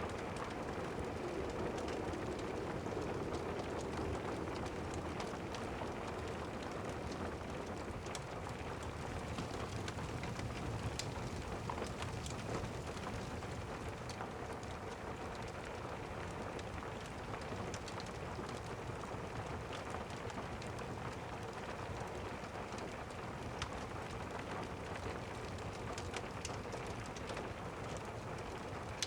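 Steady rain with a low rumble underneath and scattered sharp crackles of a fireplace.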